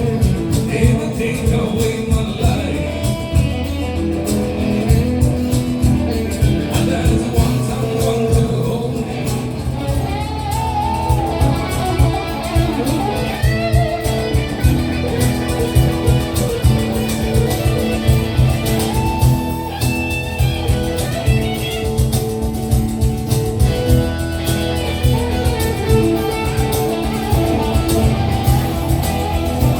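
Live rock band playing, guitar to the fore over a steady beat.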